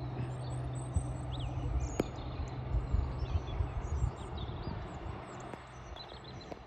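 A diesel passenger train running across the viaduct with a steady low engine hum and rumble, a few knocks, dying away after about five seconds. Small birds chirp over it.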